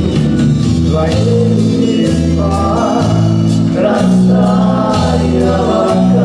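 Pop song performed by a vocal-instrumental ensemble, with several voices singing together over a band accompaniment and a bass line that changes note about once a second.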